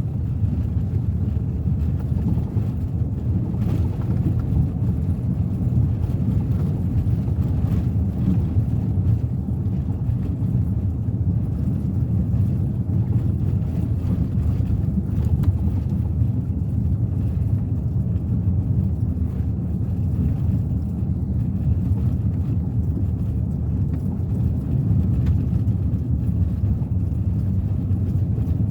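Suzuki Ertiga 1.4 car driving steadily at road speed: an even, low rumble of tyre and road noise mixed with the engine running.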